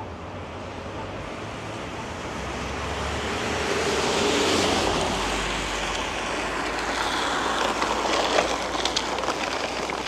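A taxi passing on the road, its noise swelling and then fading, with a scraping, crackling rattle from underneath near the end: the sound of something dragging under the car, perhaps a big chunk of ice.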